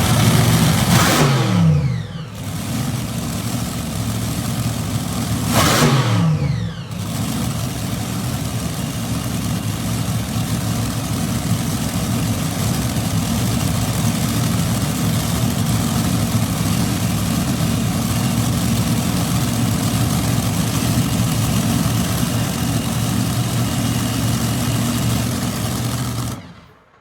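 Supercharged V8 engines idling, blipped twice (about a second in and about six seconds in), the pitch falling back after each blip. After that they run at a steady idle, and the sound stops abruptly near the end.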